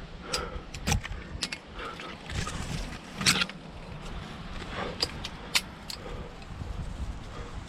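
Climbing gear clinking and scraping against rock in a run of irregular sharp clicks, over a low rumble.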